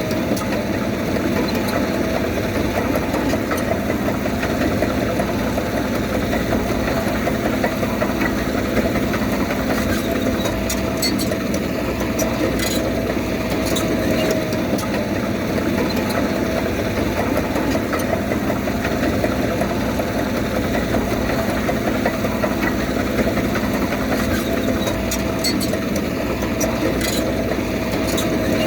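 Diesel engine of heavy earthmoving machinery running steadily, with a steady whine over the engine note.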